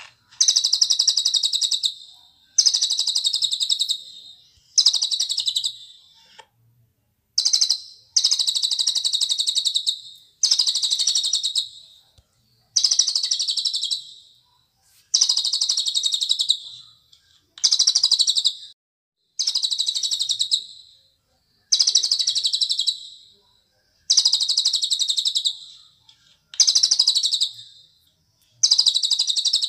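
A cililin bird singing a fast, high, trilled phrase of about a second and a half, over and over, with a short pause before each repeat. Each phrase starts loud and fades toward its end.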